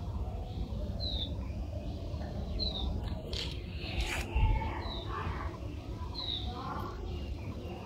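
A bird gives a short, high, downward-sliding chirp four times, a second or two apart. Around the middle come rustling and a sharper handling noise, the loudest moment, as leaves and stems are handled to pick flowers. A steady low rumble lies underneath.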